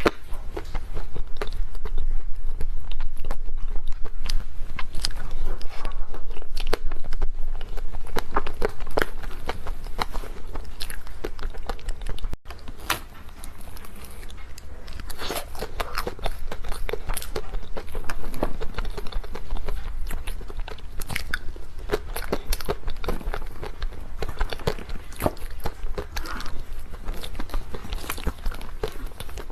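Close-miked eating of dessert: repeated biting and chewing with crisp, irregular crunching and crackling clicks, broken by a brief cut a little under halfway.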